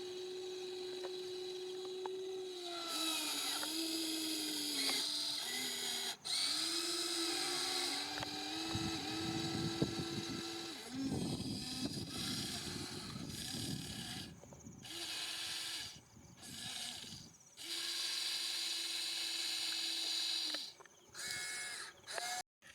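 Small electric motors and gearboxes of radio-controlled construction models whining, starting and stopping repeatedly and shifting in pitch as the models are driven. A rough crackling rattle runs for a few seconds in the middle.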